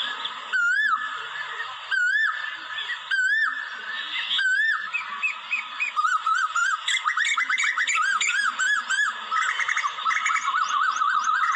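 Asian koel calling: a clear whistled note that rises and falls, repeated about once a second, then from about five seconds in a fast run of many quick notes.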